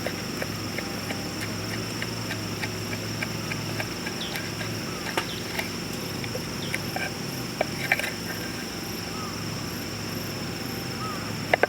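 Cooking over a wood-fired VIRE rocket stove: a low steady rumble under many small, irregular crackles and pops, with a few louder pops near the end.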